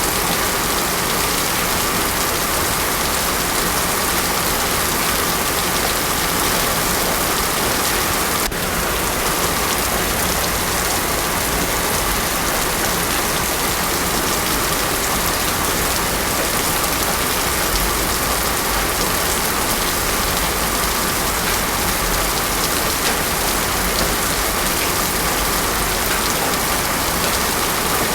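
Heavy rain falling steadily on a paved road, a dense, even hiss of drops without thunder.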